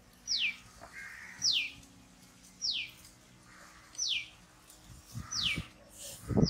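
A bird repeating a short, high whistle that falls sharply in pitch, six times at an even pace of about one every second and a quarter. A few low thumps come in near the end.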